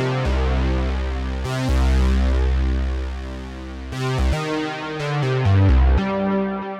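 Behringer Poly D analog synthesizer playing a deep held bass note under sustained higher notes, re-struck once, then a run of shorter bass notes stepping in pitch about four seconds in.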